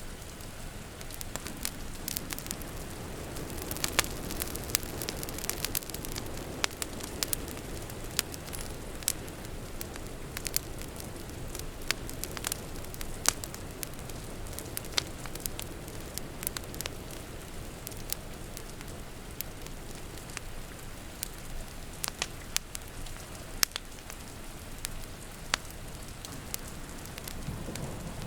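Wood fire crackling, with irregular sharp pops and snaps over a steady hiss of rain outside. A low rumble of thunder begins near the end.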